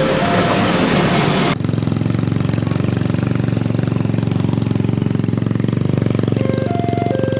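Level-crossing warning bell sounding its two alternating tones over loud rushing noise, cut off abruptly about a second and a half in. A steady, fast-pulsing low engine buzz follows, and the two-tone ding-dong starts again near the end.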